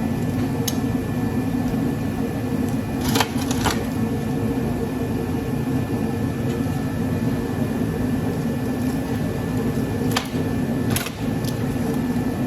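A steady mechanical hum, with a few sharp metallic clicks and knocks as a rusted golf cart charger transformer is pried at to pull its windings out: a pair about three seconds in, and two more near the end.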